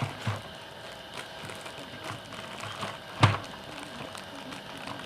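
Chopsticks and dishes clicking and tapping while eating, with one louder knock about three seconds in.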